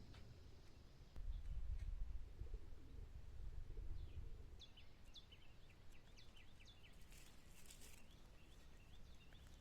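Small birds chirping, a run of short, quick chirps through the second half. A low rumble, loudest during the first few seconds, lies under it.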